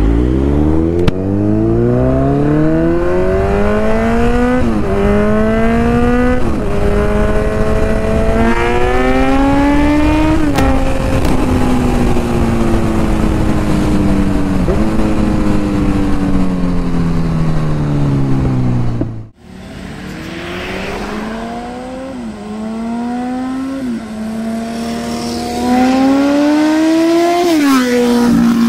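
Kawasaki Z900's inline-four engine through an Akrapovic titanium full-system exhaust, accelerating up through the gears: the note climbs, dips briefly at each of several quick shifts, then falls away as the bike slows. After a sudden break about two-thirds in, it pulls up through the gears again, quieter at first and loud near the end.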